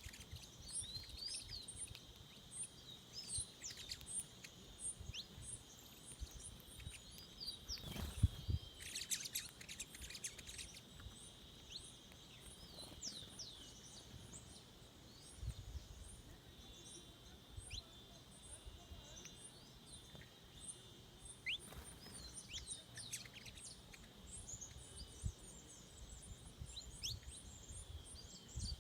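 Forest birds chirping and calling, several short, quick calls, over a steady high-pitched insect drone and a repeated very high ticking note.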